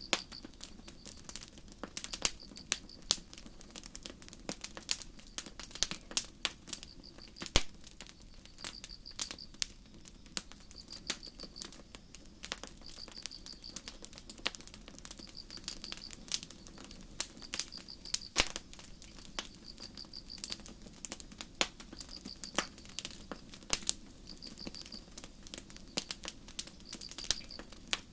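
Campfire crackling with frequent sharp pops over a low steady burn, while crickets chirp in short high trills every second or two.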